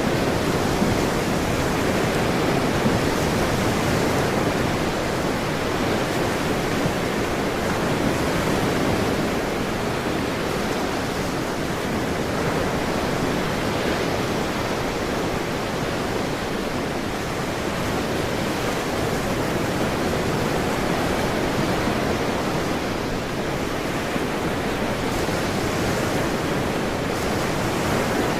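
Ocean surf washing ashore in a steady, continuous rush with gentle slow swells in loudness.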